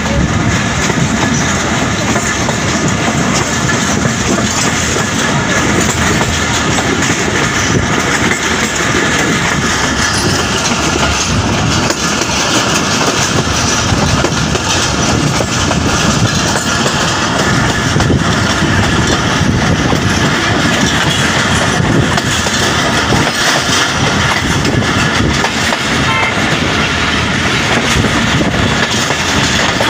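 Allama Iqbal Express passenger train running along the track, heard through an open carriage window: a steady loud rumble and rush of air, with the wheels clattering over the rails throughout.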